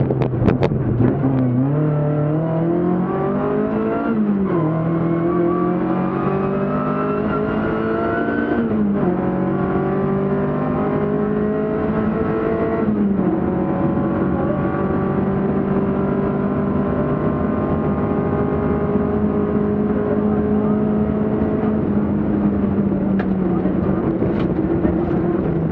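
BMW 2002 Ti rally car's four-cylinder engine under hard acceleration, heard from inside the car. Its pitch climbs through each gear, with upshifts about four, nine and thirteen seconds in, then it holds high revs for a long stretch.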